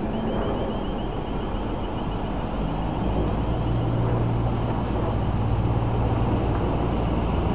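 South West Trains class 444 Desiro electric unit approaching the station. A steady low rumble grows louder from about three seconds in, with a faint high wavering whine above it.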